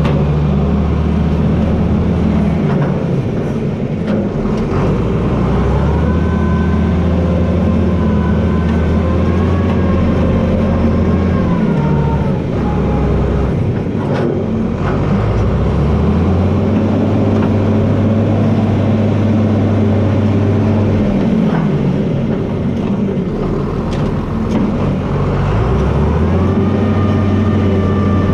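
John Deere 4320 tractor's six-cylinder diesel engine running under changing load; its pitch drops and recovers several times. A higher whine rises and falls with it.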